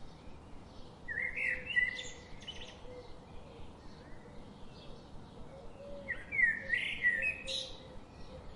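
Birds chirping and singing: a louder song phrase comes twice, about five seconds apart, over fainter scattered chirps.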